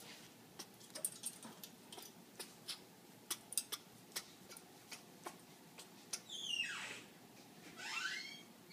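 African grey parrot in courtship display making a run of sharp, irregular clicks, then a falling whistled call and, about a second later, a rising call near the end.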